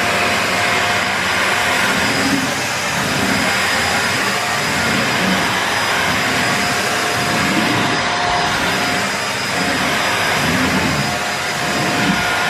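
Shark Lift-Away NV340UKR bagless upright vacuum cleaner running steadily: a rush of air with a thin steady whine over it.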